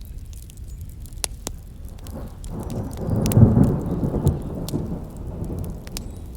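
Wood campfire crackling with scattered sharp pops, while a loud low rumbling whoosh swells up about two and a half seconds in and dies away by about five seconds.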